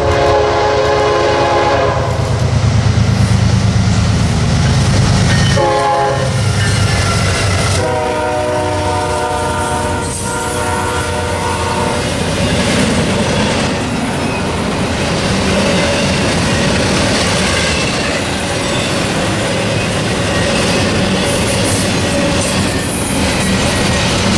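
A diesel freight locomotive's horn sounds a long blast, a short one about six seconds in, then another long one, over the deep rumble of the lead ES40DC locomotive passing. After the horn stops, a double-stack intermodal train rolls by with steady wheel noise and clickety-clack over the rail joints.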